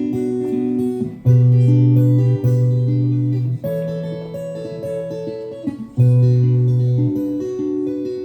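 Acoustic guitar playing chords between sung verses, with a change of chord every second or two.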